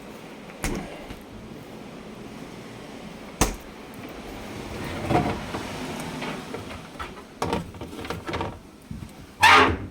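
Kitchen cabinet doors being opened and closed: several separate clicks and knocks, with the loudest bang near the end.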